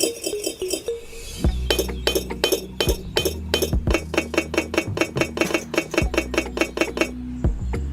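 A rapid, even series of light clinks, about four a second, over a low steady hum; the clinking stops near the end.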